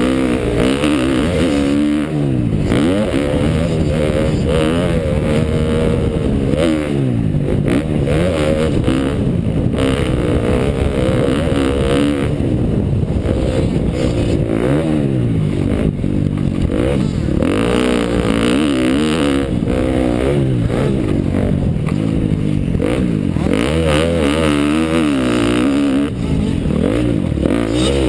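KTM dirt bike engine being ridden around a motocross track, its pitch rising and falling again and again as the throttle is opened and closed through the laps.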